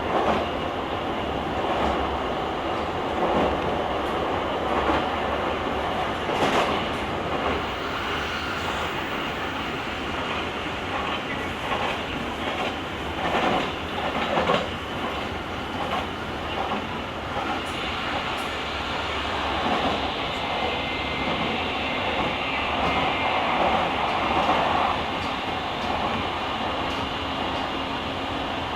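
Running sound of a JR Kyushu 883 series electric express train with GTO inverter control, heard from the vestibule deck of a motor car: a steady rumble of wheels and drive with rail-joint clatter at a few points. A faint, steady, high tone comes in about halfway.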